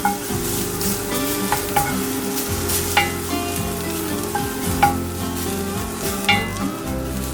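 Food frying and sizzling in a pan, a steady hiss, under background music with a bass line and sharply struck notes.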